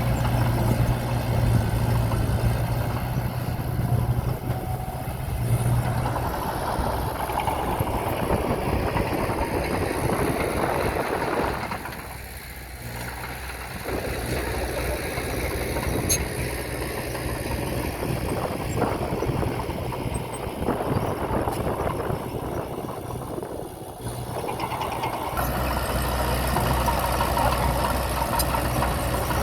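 Diesel engine of heavy earthmoving equipment running steadily under varying load. It drops in level for about two seconds around twelve seconds in, dips again shortly before the end, then comes back strongly.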